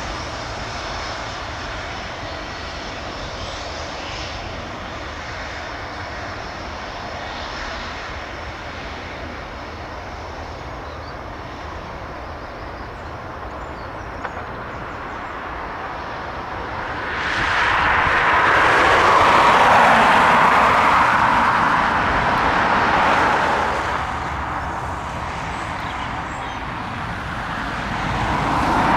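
Boeing 757 jet engines running: a steady jet rumble that swells loudly a little past the middle as the aircraft passes close, then eases off and begins to rise again near the end.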